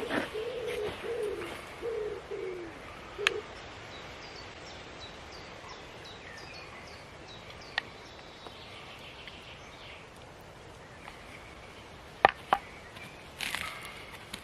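A dove cooing in a short run of low, falling notes over the first three seconds, then small birds chirping faintly and high. A few sharp clicks come later, the loudest about twelve seconds in.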